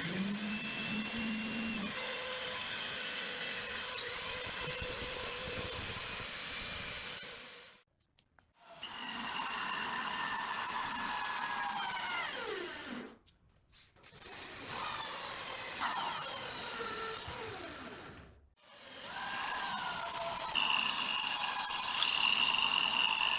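A handheld power tool running in four spells of a few seconds each, stopping briefly between them, with its pitch falling as the motor winds down after each stop.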